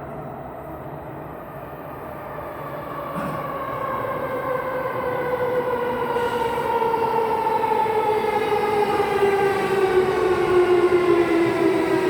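Tokyo Metro 07 series subway train pulling into the station, its traction motors giving a whine of several tones that falls slowly and steadily in pitch as the train brakes, growing louder over a running rumble.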